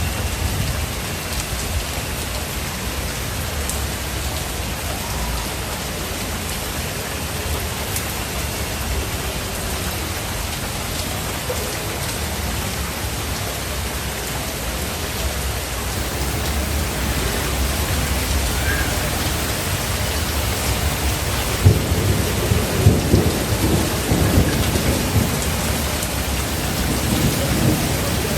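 Steady heavy rain with thunder rumbling low underneath; in the last quarter a louder roll of thunder comes in with crackling peaks.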